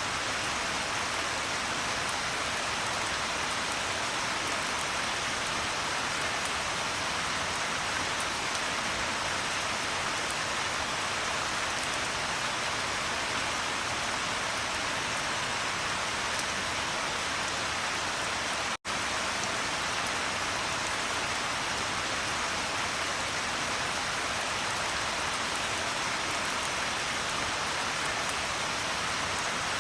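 Steady rain falling on a surface, an even, continuous hiss. About two-thirds of the way through it drops out for a split second, a break in the recording, then carries on unchanged.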